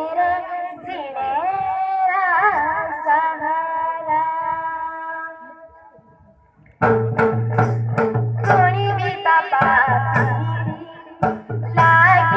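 A young girl singing a folk song, holding one long wavering note that fades out about six seconds in. Nearly seven seconds in, dholak, khanjri and chimta come in with a beat, and the singing carries on over them.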